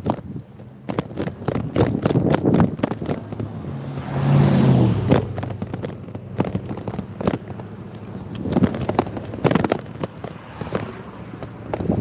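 Motorbike engine running while riding, its note swelling louder for about a second around four seconds in, with wind buffeting the microphone.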